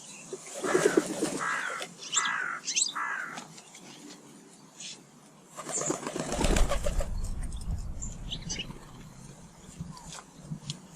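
Garden birds at a feeder: a run of four falling calls in the first few seconds, then a loud flurry of wing flapping about six seconds in, with small birds chirping high and thin throughout.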